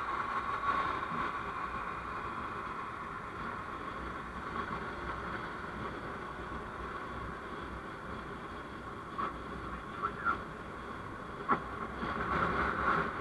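Steady road and engine noise of a vehicle on the move, with a few short sharp ticks in the second half.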